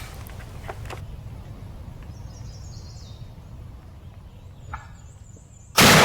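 Wild turkey gobbling over a steady low outdoor rumble, then a single loud shotgun blast near the end that echoes away.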